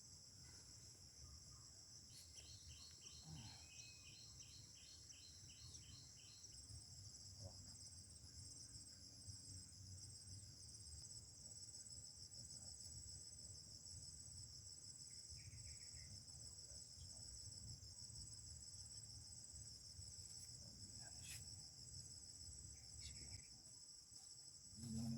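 Faint steady chorus of crickets or similar insects, a continuous high shrill, over a low rumble. About two seconds in, a rapid series of higher chirps repeats for roughly four seconds.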